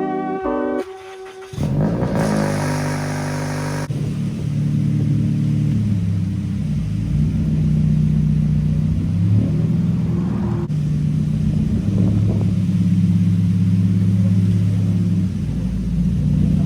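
Car engine starting about a second and a half in, then running with its revs rising and falling several times.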